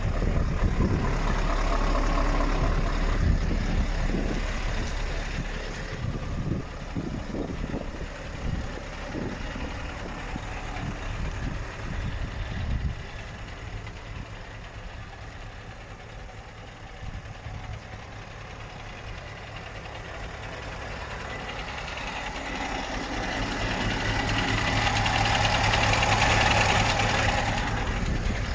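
Scania R580's V8 diesel engine idling steadily, growing louder toward the end. Irregular low rumbling and knocks sit over it for the first dozen seconds or so.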